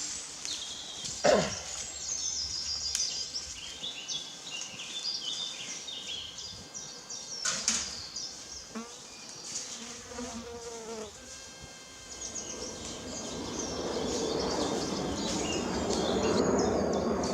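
Small woodland birds chirping and singing throughout, with a sharp knock about a second in and another snap midway. In the last few seconds the low rumble of a large aircraft overhead swells.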